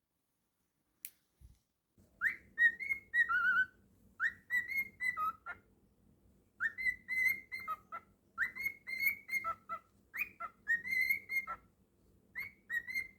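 Cockatiel whistling a tune in five or six short repeated phrases, starting about two seconds in.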